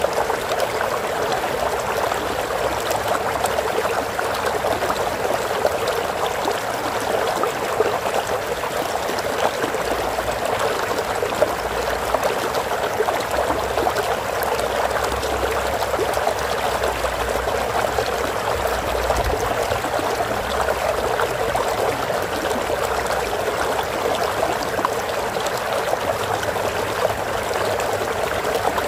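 Water flowing steadily in a stream, an even unbroken rush and trickle.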